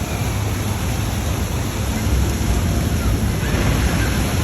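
Steady rushing of water, growing a little louder about halfway through.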